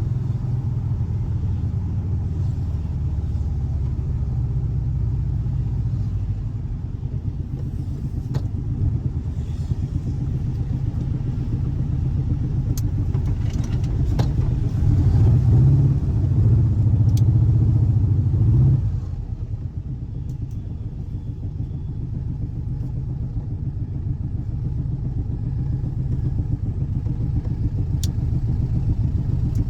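Air-cooled 1584 cc flat-four boxer engine of a Volkswagen Fusca (Beetle) running steadily. It grows louder for a few seconds just past the middle, then drops back sharply and runs on more quietly.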